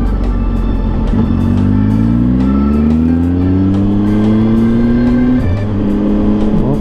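Triumph Tiger 800 XRT's three-cylinder engine accelerating under way, its pitch climbing steadily for several seconds, then dipping briefly twice near the end as it changes up a gear before pulling on again.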